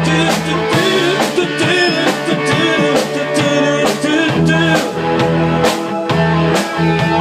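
Rock music with electric guitar, bass and drums playing a steady beat, a short instrumental stretch between sung lines of the song.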